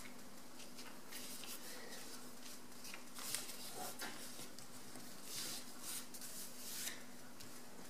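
A sheet of A4 paper being handled and creased by hand while folding a paper airplane: faint, soft rustles and scrapes of fingers pressing and rubbing along the folds, coming several times.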